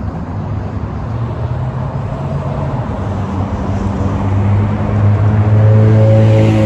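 Highway traffic going by, with one vehicle's engine hum growing louder and nearer over the last couple of seconds.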